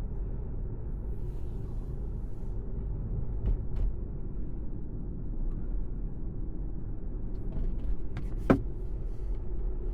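Road and tyre noise inside a 2019 Tesla Model 3's cabin while driving: a steady low rumble, with one sharp click about eight and a half seconds in.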